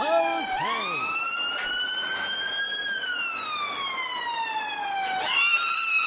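Electronic police siren wailing, with a few short chirps at the start. The pitch climbs slowly for about two seconds, falls slowly for about two more, then starts climbing again near the end.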